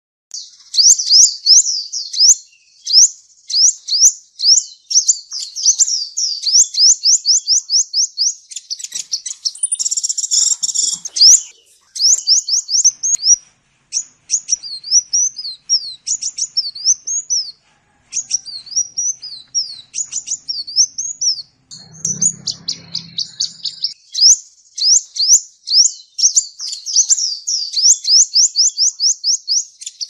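Small bird chirping: high, thin notes, each a quick downward sweep, repeated several times a second in long runs with short breaks. A brief scratchy burst comes about ten seconds in.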